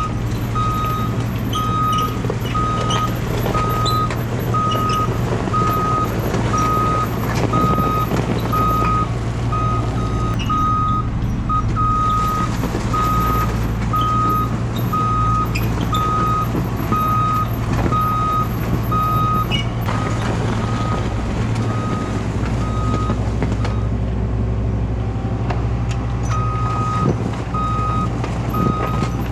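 Cat excavator's diesel engine running steadily while its travel alarm beeps in a regular pulse as the machine tracks back and forth pushing gravel. The beeping stops for a few seconds near the end, then starts again.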